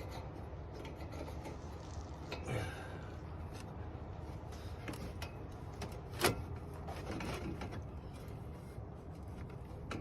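Hands working a plastic clip free in a car's engine bay: scattered light clicks and knocks over a steady low hum, with one sharper click about six seconds in.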